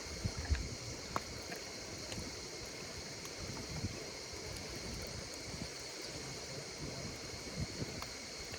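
Campfire crackling with sharp pops now and then, most around the first second, over a steady, high-pitched chorus of insects singing.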